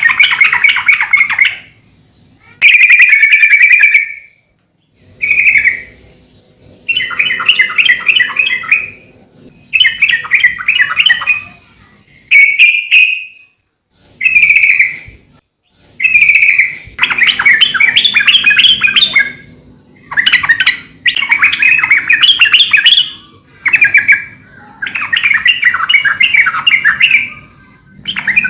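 Yellow-vented bulbul (trucukan) singing loudly and persistently: short bubbly, chattering phrases about one to two seconds long, repeated over and over with brief pauses between them.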